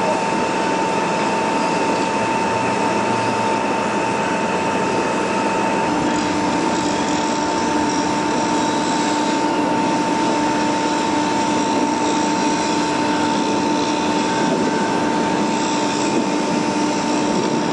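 Saturn Model 62-40HT dual-shaft industrial shredder running and shredding vacuum cleaners: a steady, dense mechanical noise with a constant whine, joined by a lower hum about six seconds in.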